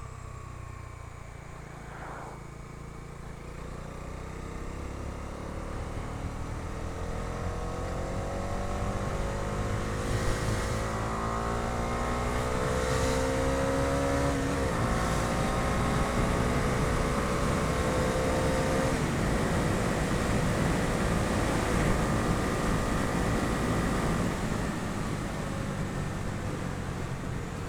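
Bajaj Dominar 250's single-cylinder engine pulling two-up, its pitch rising as it accelerates, breaking at an upshift about halfway, climbing again, then shifting once more and holding steady at cruising speed. Wind rush on the microphone runs underneath.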